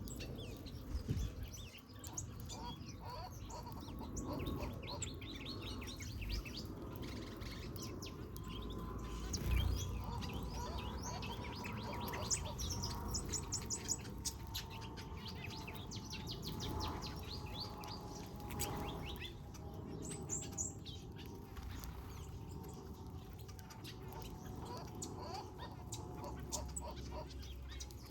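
A mix of small aviary birds, finches and softbills, chirping and twittering together, with quick high trills and overlapping calls.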